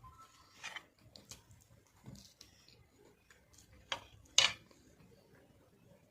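Quiet eating sounds from someone eating black forest pastry: small scattered clicks, with two sharp clinks about four seconds in.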